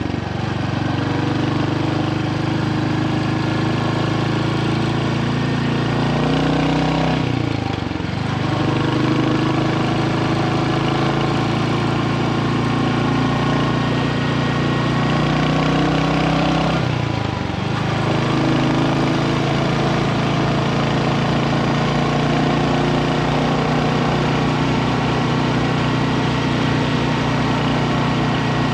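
Royal Enfield Hunter 350's 349 cc single-cylinder engine running at a steady speed. Twice, about seven and seventeen seconds in, its pitch drops and then climbs back.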